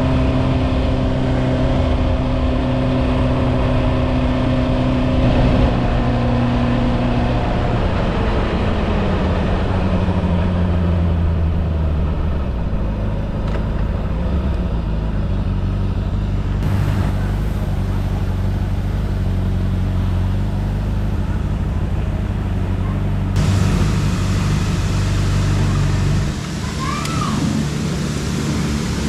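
A motor running steadily. Its pitch slides down about a third of the way in, and the sound changes abruptly a couple of times.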